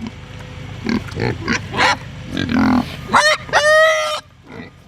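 Kunekune pigs grunting while being fed grapes, with two loud drawn-out squeals about three seconds in.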